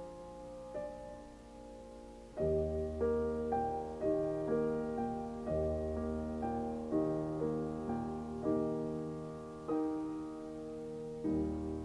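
Piano music: a few slow single notes, then a steady run of chords with a low bass that enters about two seconds in.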